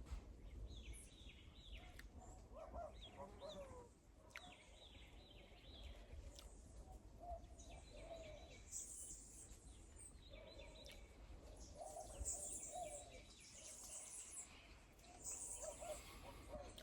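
Faint outdoor ambience: small birds chirping in short repeated series, with other faint bird calls and a low background rumble.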